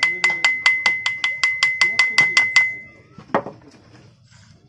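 Rapid light hammer taps on metal, about six a second, with a steady ringing tone, as the armature and its new bearing are driven into the electric planer's housing. They stop after about two and a half seconds, followed by one heavier knock.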